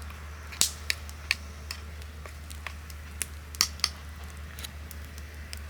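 Irregular sharp clicks and crackles, a dozen or so scattered unevenly, over a steady low hum.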